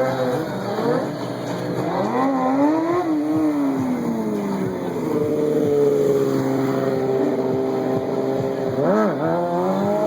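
A stunt vehicle's engine revving up and down. The pitch climbs and falls over a few seconds, holds steady for a while in the middle, then gives a quick blip up and down near the end.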